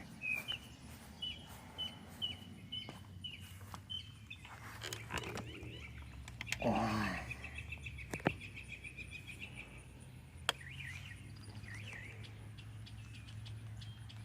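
Wild birds calling: a run of short, high chirps about two a second, then a longer high trill partway through, with a louder single call that falls steeply in pitch about seven seconds in. A faint low steady hum lies underneath.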